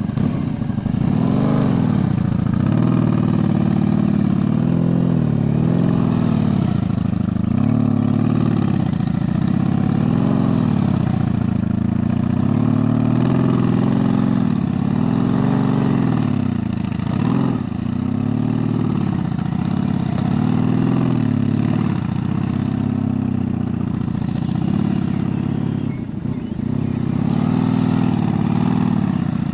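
Honda Magna V-four motorcycle engine running at low speed, its pitch rising and falling over and over about every two seconds as the throttle is opened and eased through tight cone weaves and turns.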